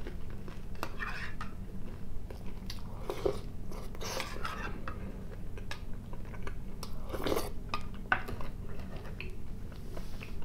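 Close-miked mouth sounds of a person chewing soft tinned sprats in tomato sauce, with irregular wet smacks, and a metal spoon clinking and scraping in the tin can.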